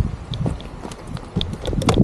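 Irregular hard clicks and knocks, like hard-soled steps on pavement around a road bike.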